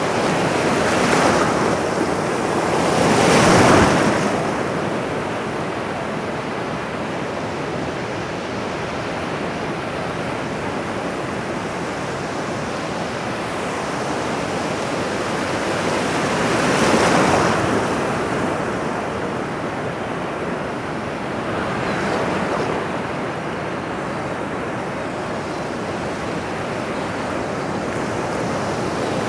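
Ocean waves breaking on a shore, a steady wash of surf that swells louder as waves break, strongest about three seconds in and again near the middle.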